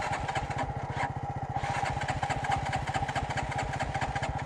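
Motorcycle engine idling steadily, with an even, rapid low chugging.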